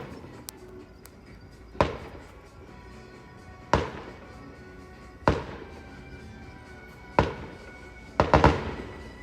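Fireworks going off, five sharp bangs about two seconds apart, each trailing off in a fading echo, the last a quick cluster of several bangs near the end.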